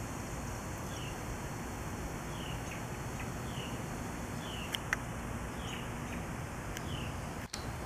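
A small bird calling with a short, falling chirp, repeated about once a second, over steady outdoor background noise.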